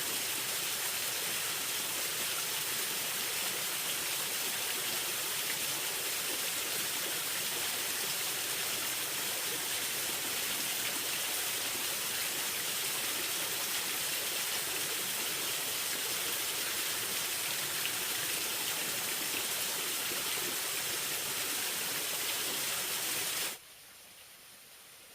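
Steady water noise, an even hiss that cuts off abruptly about 23 seconds in, leaving only a faint hiss.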